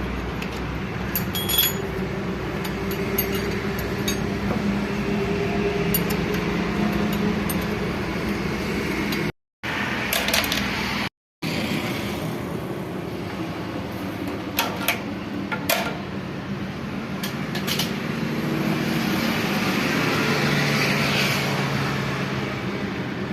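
Metal tools and tractor gearbox parts clinking and knocking now and then during reassembly, over a steady background hum.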